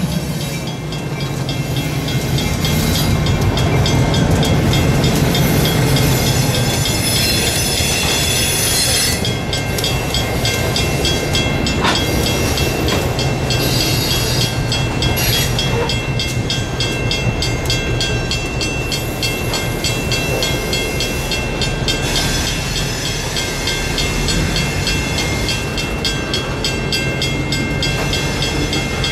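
Diesel engines of EMD GP18 locomotives running as the train moves, with a steady low rumble, wheels clicking over rail joints at an even pace, and a steady high whine.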